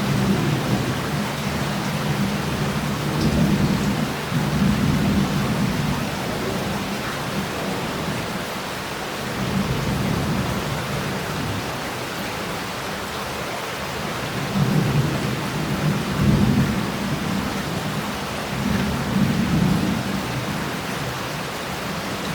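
Heavy rain falling and running off tiles and pavement as a steady hiss, with thunder rumbling low in several rolling swells, loudest about two-thirds of the way through.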